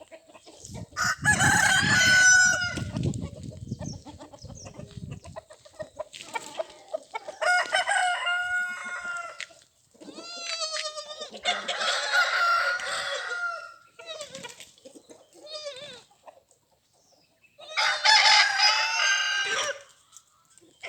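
Desi (country-breed) roosters crowing about four times, each crow long and drawn out, with quieter clucking between them. A low rumble runs under the first few seconds.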